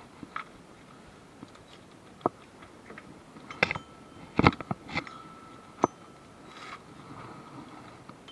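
Scattered sharp metallic clinks and knocks, as of tools and car parts being handled. Most come in a cluster between about three and a half and six seconds in, and some ring briefly.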